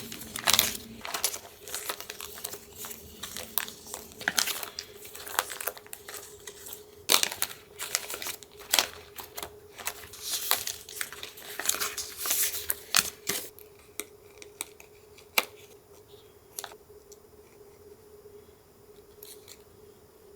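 Paper being torn, crinkled and handled for collage, a dense run of crackles and small clicks that thins out after about 13 seconds to a few scattered taps.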